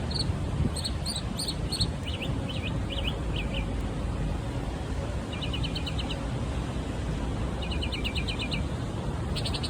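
Northern mockingbird singing: a string of different phrases, each a few quick repeated high notes. It starts with short chips, moves to slurred downward notes, then gives rapid trilled runs. A steady low rumble of background noise sits underneath.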